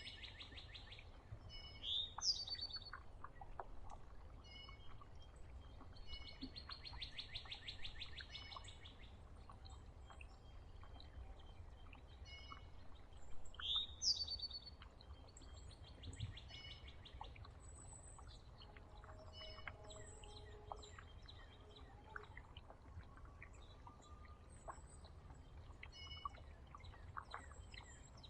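Songbirds calling and singing at a feeder: a rapid, even trill about two to three seconds long, heard three times, two loud sweeping chirps, and many short, high chip notes.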